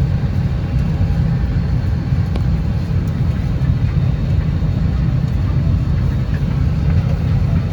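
Steady low rumble of a vehicle's interior, with a lighter hiss above it and no distinct events.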